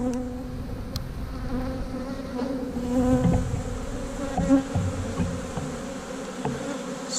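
Honey bees buzzing around an open hive: a dense, wavering hum of many bees from a strong, populous colony, with a few faint clicks.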